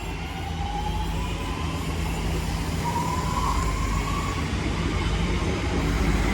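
Class 323 electric multiple unit pulling away, its traction motors giving a rising whine that grows steadily louder over a low rumble.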